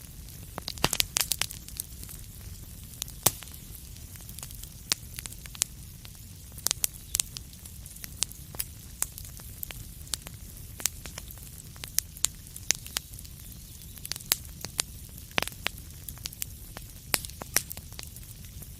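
Wood fire burning in a fireplace: a steady low rumble and hiss under frequent sharp, irregular crackles and pops, a few of them louder than the rest.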